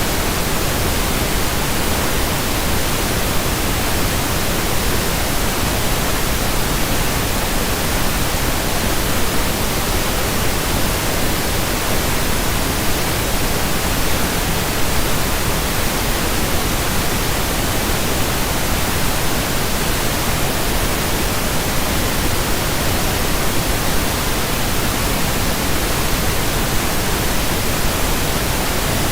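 Steady pink noise: an even, unchanging hiss that is deeper than white noise.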